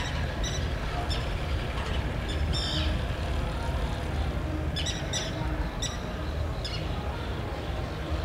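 Short bird calls, about a dozen in loose groups, over a steady low engine rumble.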